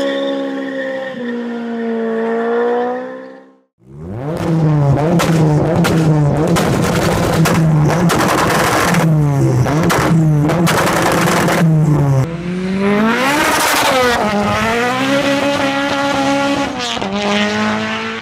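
Honda S2000's four-cylinder engine held at high revs in a burnout, with tyre squeal, for about four seconds. After a cut, the engine is blipped up and down repeatedly, about a dozen quick rises and drops. Then its revs climb in one long rise and hold high, with brief dips near the end.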